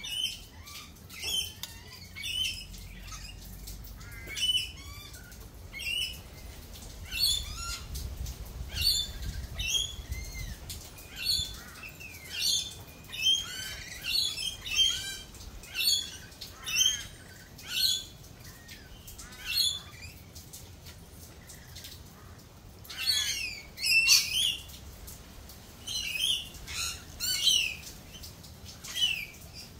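Birds calling in short, sharp chirps and squawks, one or two a second, over a faint low rumble.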